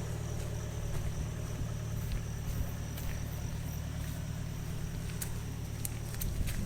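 Gurgel's turbo diesel engine running steadily with a low hum, with scattered sharp clicks and knocks over it.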